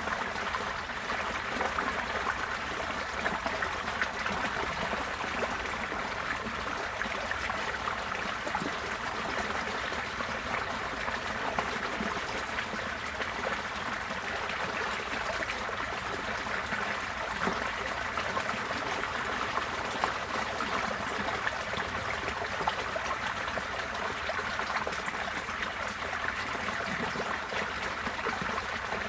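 Receding floodwater flowing and trickling steadily, like a stream.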